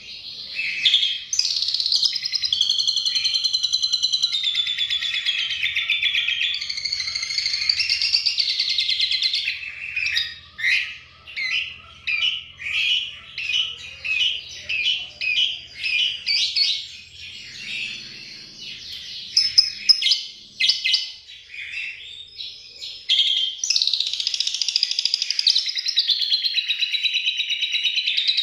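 Asian pied starling singing, its song filled with a lovebird's long chattering 'ngekek' trill that it has learned to mimic. Long unbroken stretches of high chattering open and close the song, with separate short phrases about one a second in the middle.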